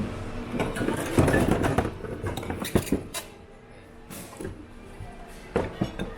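Background music, with clinking and clattering of dishes and glassware being handled and knocked together in a bin. The knocks come in a cluster about a second in and again near the end.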